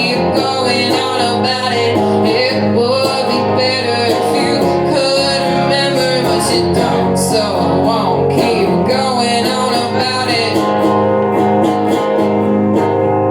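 Live band performing a song: a voice singing over strummed guitar chords, with regular drum and cymbal hits.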